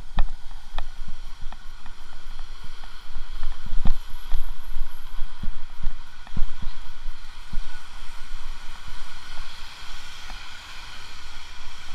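Wind buffeting the microphone in irregular low thumps over a steady rushing noise.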